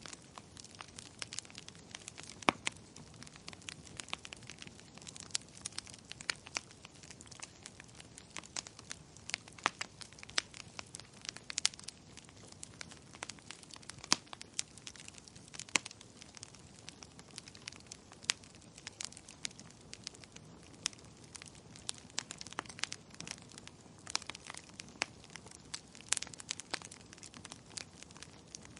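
Wood fire in a fireplace, crackling and popping irregularly over a low hiss of burning.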